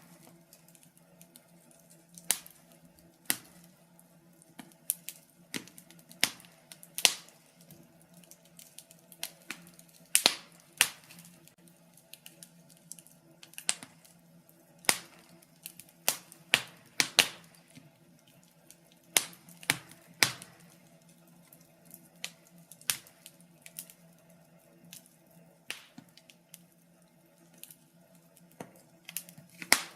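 Wood burning in a fireplace, crackling with irregular sharp pops and snaps, some coming in quick clusters, over a faint steady low hum.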